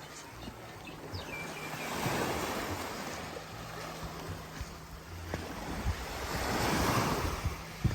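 Sea waves washing in on a beach, two surges about five seconds apart.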